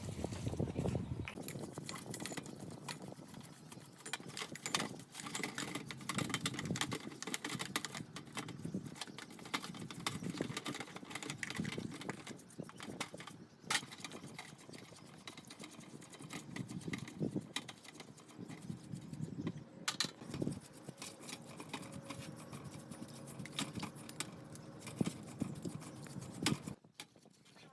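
Irregular small clicks, taps and rattles of hand work on small parts, with a brief drop in sound near the end.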